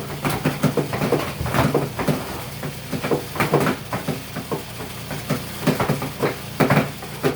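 Portable washing machine spinning to wring out a load of laundry: a steady motor hum with irregular clicks and knocks on top, as the water is forced out.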